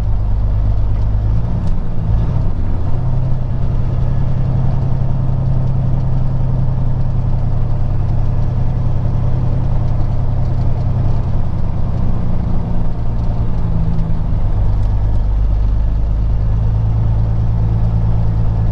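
Peterbilt 379 semi truck's diesel engine running at low speed while the truck creeps along, with its pitch shifting about two seconds in and again near the three-quarter mark.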